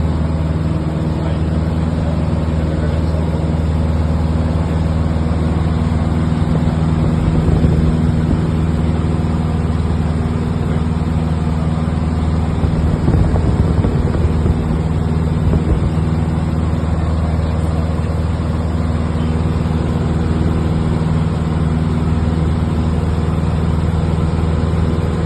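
Steady drone of an aircraft engine heard inside the cabin in flight, a low even hum over rushing noise, swelling slightly twice.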